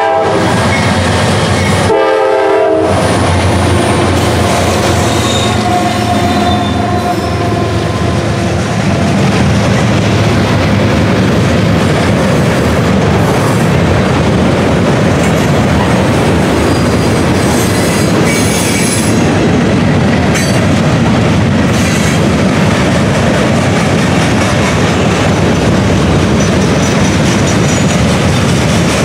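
Norfolk Southern freight train passing: the GE D9-40CW and EMD SD70 diesel locomotives go by in the first seconds, then a long string of gondola cars rolls past with steady wheel and rail noise. A few brief squealing tones come from the wheels.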